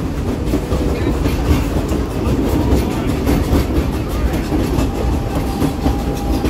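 Narrow-gauge passenger train rolling along, heard from aboard an open car: a steady rumble with the clickety-clack of wheels over the rail joints. A faint thin whine joins about five seconds in.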